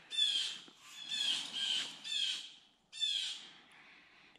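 A bird giving a series of short, harsh calls, each falling in pitch, about two a second, stopping about three and a half seconds in.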